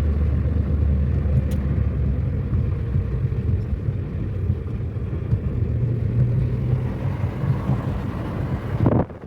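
Car driving on the road: a steady engine hum and low road rumble, the engine's pitch shifting a little partway through. It cuts off abruptly near the end.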